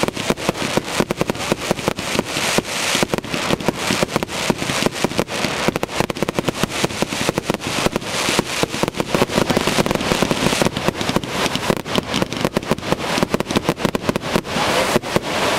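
Fireworks going off in a rapid, unbroken barrage of sharp bangs and crackles, many per second.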